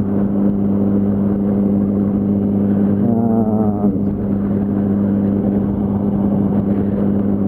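Yamaha R1's inline-four engine running at a steady, even pitch while the bike cruises, with wind and road noise underneath.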